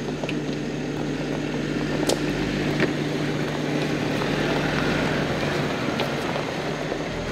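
Vehicle engine running with a steady hum under broad road or tyre noise; the hum drops away about six seconds in.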